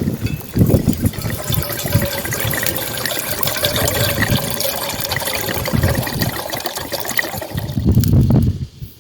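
Running water, loud and continuous with low knocks, starting suddenly and cutting off shortly before the end.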